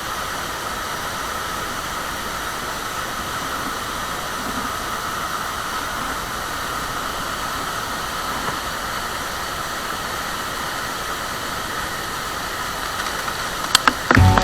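Waterfall: a steady rush of falling water, with a couple of sharp clicks near the end.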